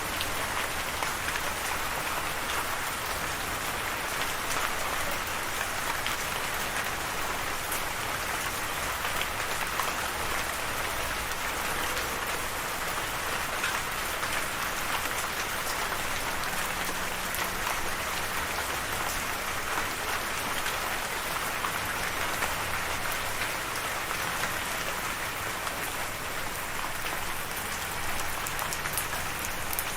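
Steady rain falling, an even hiss of rain with scattered individual drops ticking on a surface.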